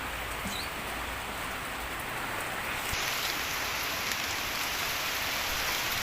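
Heavy rain falling steadily on surfaces in a strong wind, an even hiss that grows a little louder about halfway through.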